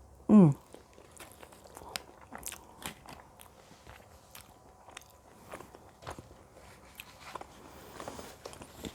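Close-miked chewing and wet mouth clicks of a woman eating pasta shells in bolognese sauce. A short vocal sound falling in pitch comes just after the start and is the loudest thing.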